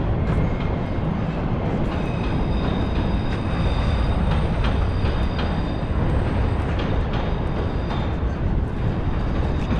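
A train running: a steady heavy rumble with scattered clicks, and faint steady high whines that come in about two seconds in.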